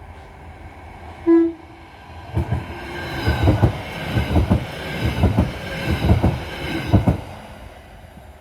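Merseyrail Class 777 electric train giving one short horn toot, then running past over the level crossing with rail noise and sharp wheel knocks that come in pairs about once a second, dying away near the end.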